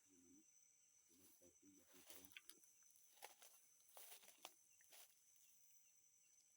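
Near silence in a night-time forest: a faint, steady high insect trill, with a few soft murmurs in the first two seconds and several faint clicks and rustles about three to five seconds in.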